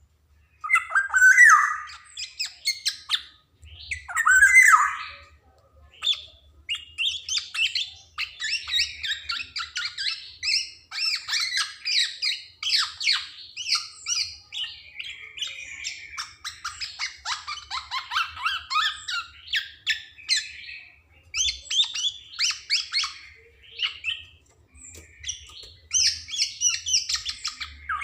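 Black-naped oriole (kepodang) singing: two harsh, falling calls in the first few seconds, then a long run of rapid, varied chattering notes.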